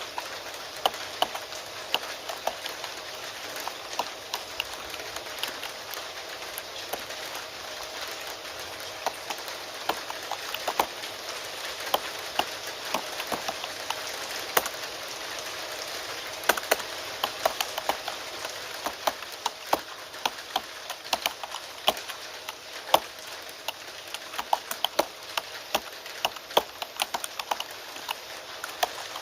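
Steady rain under computer keyboard typing: irregular keystroke clicks in quick runs with short pauses, some keys clacking louder than others.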